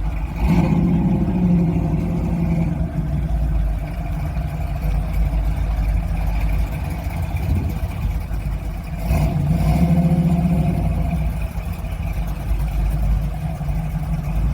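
Muscle car engines rumbling as cars move through the meet, with two louder surges where a car revs or passes close by: one about half a second in and another around nine seconds in.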